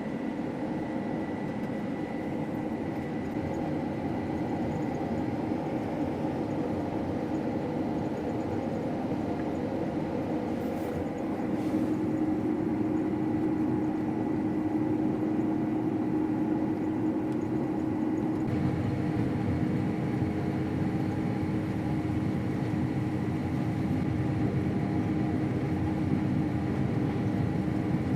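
Steady drone of a combine harvester running, heard from inside the cab, with a constant mechanical hum and whine. It grows a little louder and heavier a little past the middle.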